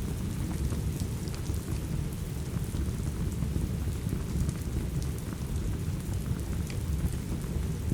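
Steady rain with a deep, even low rumble underneath, mixed with scattered sharp crackles and pops from a wood fire.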